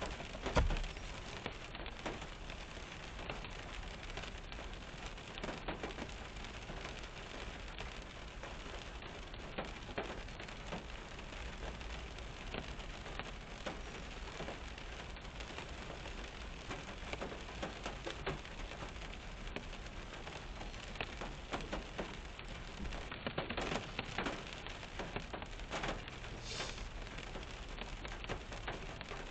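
Rain falling on a car's roof and windshield, heard from inside the car: a steady patter with many separate drops tapping the glass and metal. A brief knock sounds right at the start.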